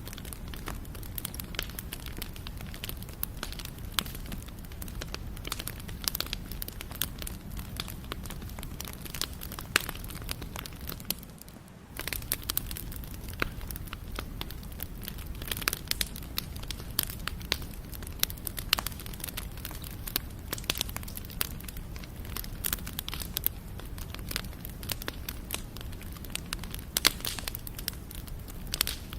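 Wood campfire burning, with irregular crackling and popping over a low steady rumble of the flames. The sound dips briefly about eleven seconds in, then resumes.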